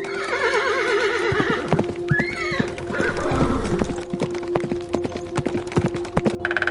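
A horse whinnying with a quavering call, then hooves clip-clopping repeatedly, over steady background music.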